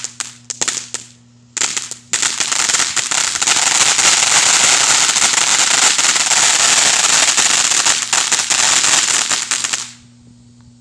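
Firecrackers going off: a few separate sharp cracks in the first second, then from about two seconds in a dense, unbroken rattle of rapid pops that stops abruptly near the end.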